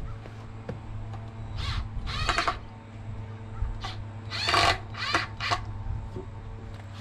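Crows cawing: about six harsh caws in two or three bunches, the loudest a little over four seconds in, over a steady low hum.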